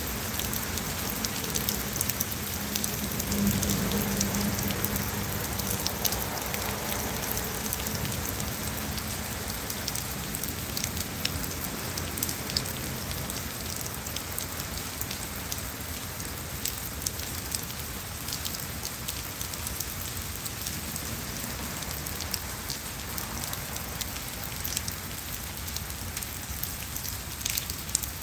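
Steady rain falling on wet stone paving and garden shrubs, with many sharp individual drop ticks.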